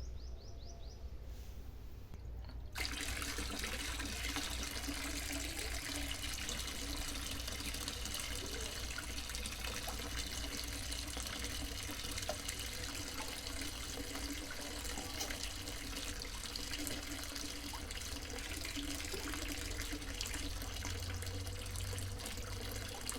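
Water running in a steady stream, starting abruptly about three seconds in, over a low hum.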